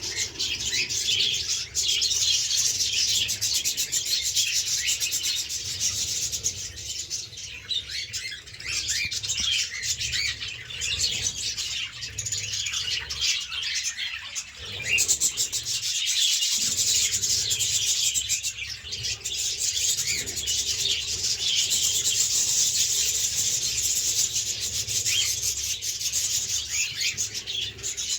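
A flock of caged pet parrots, budgerigars and cockatiels, chirping and chattering continuously, many birds calling over one another.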